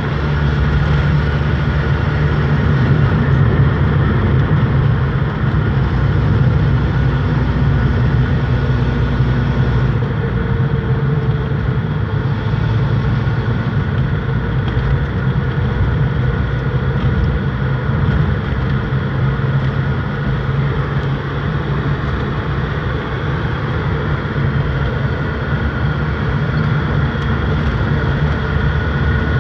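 Steady, unbroken low rumble of a running vehicle engine.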